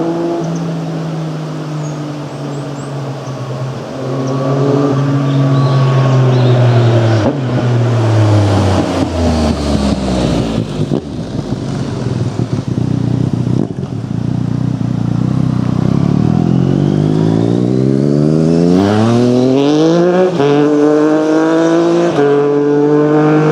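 A 2016 Yamaha MT-09's inline-three engine running through a full Akrapovic carbon exhaust. Its pitch falls low as it eases off around the middle, then climbs steadily under acceleration, with two upshifts near the end.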